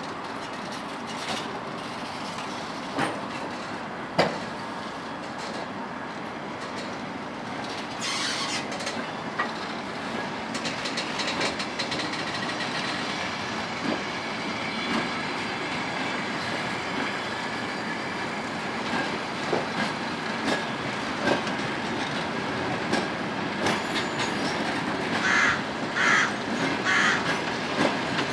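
Passenger train hauled by a ChS4 electric locomotive rolling past, its wheels clicking over rail joints and the rumble slowly getting louder; a few short wheel squeals near the end.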